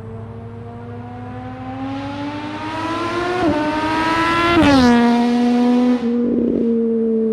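Triumph Daytona 675 Moto2 Edition's inline three-cylinder engine, its muffler replaced by a link pipe, accelerating past. The note climbs steadily, breaks briefly a little after three seconds in, then drops sharply in pitch as the bike goes by and holds a steady lower note.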